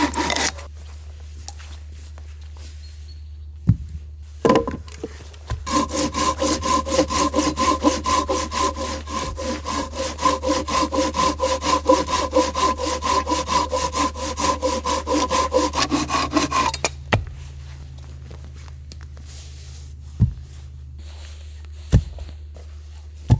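Hand saw cutting through a log on a sawbuck in quick back-and-forth strokes for about eleven seconds, with a few sharp knocks of wood before and after the cut.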